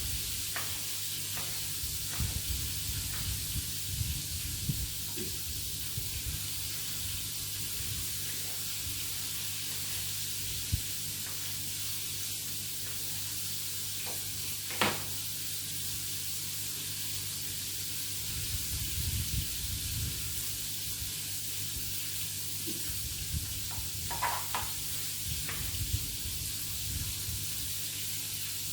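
Food sizzling steadily in a frying pan over a low steady hum, with a few light knocks, the sharpest about fifteen seconds in.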